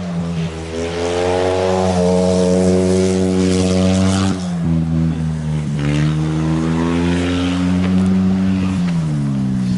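Motorcycle engines running hard while racing on ice, the engine note rising and falling with speed, with a sudden drop in pitch about four seconds in and a falling glide near the end.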